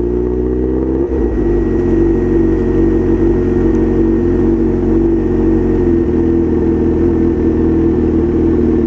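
Honda CB1000's inline-four engine running steadily under way. There is a brief break in its note about a second in, after which it holds a steady pitch.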